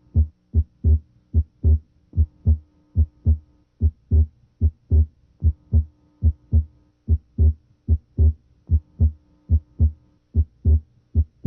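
Heart sounds heard through a stethoscope diaphragm at the left third interspace: steady lub-dub pairs of first and second heart sounds, about 80 a minute, over a faint steady hum. The patient is breathing deeply, and the second sound's split is abnormally wide and comes and goes with respiration.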